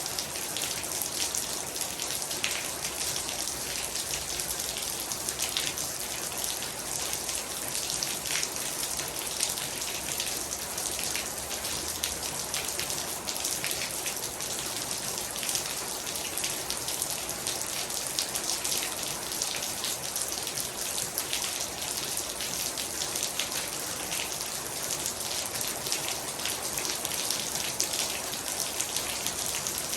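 Heavy rain falling steadily: a dense, even hiss of drops, with many close individual drops striking a surface.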